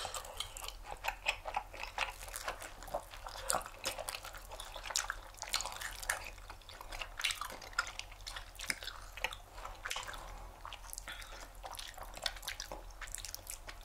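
Close-miked chewing of soft, sticky rice cakes filled with a sweet hotteok filling with peanuts: irregular wet smacks and clicks of mouths working the chewy dough.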